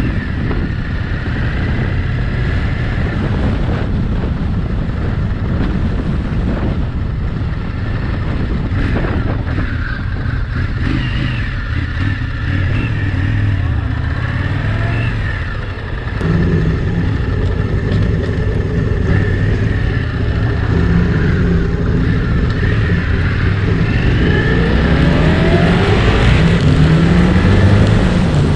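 A motorcycle running on the move, with heavy wind rumble on the microphone. The engine note comes through more clearly about halfway in and rises near the end as it accelerates.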